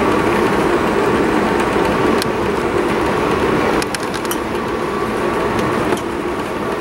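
Steady rumble of a moving passenger train heard inside the coach: wheels running on the rails, with a few sharp clicks about two seconds in and again around four seconds in.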